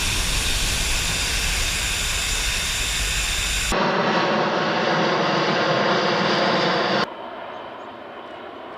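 C-17 Globemaster III jet engines running: a loud, steady rush with a constant whine. The sound changes abruptly twice, and the last couple of seconds are quieter.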